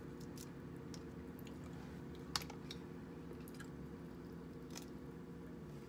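Quiet eating of king crab legs: chewing with scattered small clicks from the shell, and one sharper crack a little over two seconds in, over a steady low hum.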